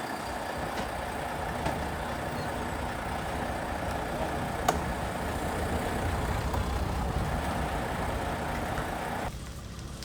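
A heavy vehicle engine running steadily, with one sharp click about halfway through. The sound drops abruptly to a quieter noise about nine seconds in.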